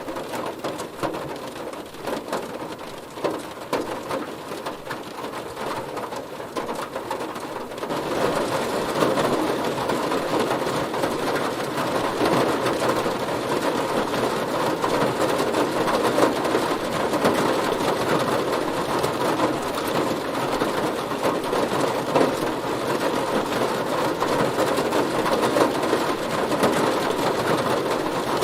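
Heavy rain pelting a car, a dense hiss of drops on the car body. About eight seconds in, the rain grows denser and louder and then stays steady.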